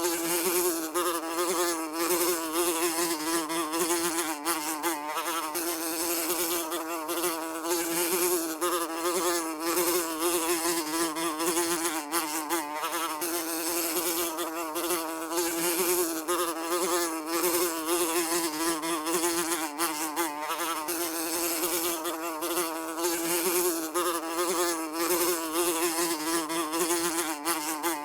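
Housefly buzzing steadily, a droning hum whose pitch wavers slightly as it flies.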